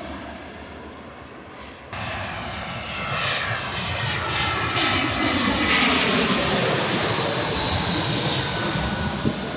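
Passenger airliner on approach flying low overhead: engine noise swells to a peak with a high whine, then begins to fade. An abrupt jump in level about two seconds in.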